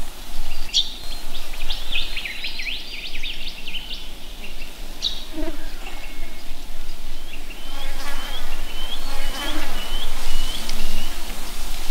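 Small birds chirping outdoors: a quick run of sweeping, twittering notes, then a row of short repeated chirps about two a second, over the buzzing of insects.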